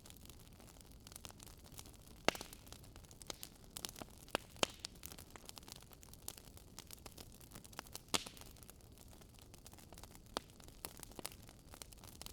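Wood fire in a fireplace crackling: irregular sharp pops and snaps from burning logs over a faint steady hiss, with two louder pops, one about two seconds in and one about eight seconds in.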